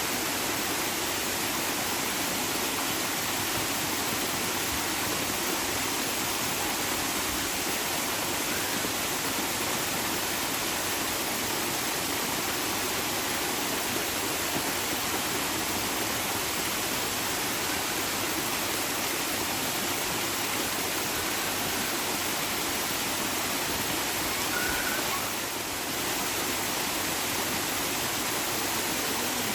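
Running water rushing steadily, an even hiss with no breaks, as from a stream or small waterfall.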